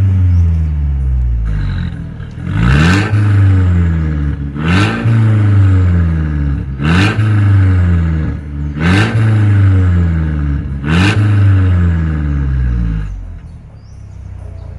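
Mercedes-Benz E250 W213's turbocharged four-cylinder engine revved through an aftermarket stainless full-system valvetronic exhaust: sharp throttle blips about every two seconds, each rising quickly and falling back, settling to a lower, quieter run near the end.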